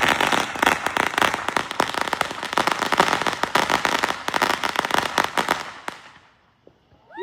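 A string of firecrackers going off in a rapid, dense crackling run. It starts suddenly and dies away after about six seconds.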